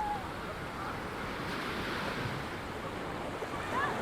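Ocean surf breaking and washing up a sandy beach: a steady hiss of waves, with some wind on the microphone.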